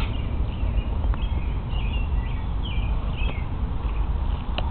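Small birds chirping, many short calls scattered throughout, over a low steady rumble, with a couple of faint clicks.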